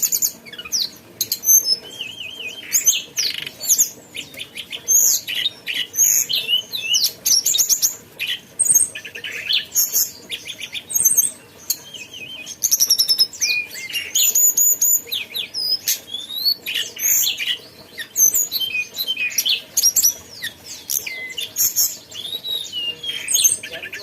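Tledekan gunung songbird singing a fast, varied chattering song of high chirps, short trills and quick whistled notes, with only brief pauses between phrases.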